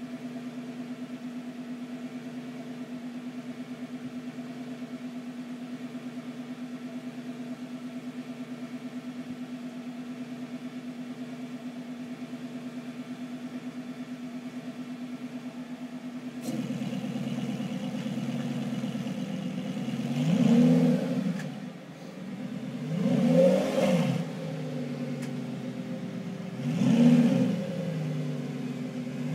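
Lamborghini Gallardo Superleggera's V10 idling steadily, stepping up a little in level about halfway through, then revved three times, each rev rising and falling in pitch, in an underground car park.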